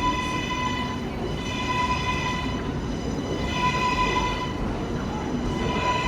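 A New York subway train standing at the platform: a steady high electrical whine with overtones that swell and fade about every two seconds, over a low rumble.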